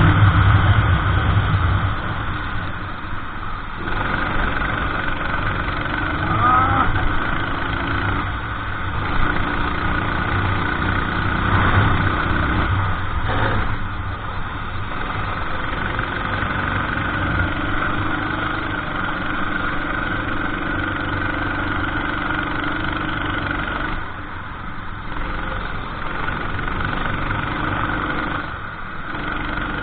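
Racing kart engine running hard, its sound dropping off briefly several times and picking up again.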